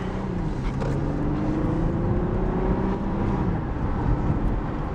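Car interior with the windows down while driving: steady road and wind noise with an engine hum that slowly rises in pitch over the first few seconds.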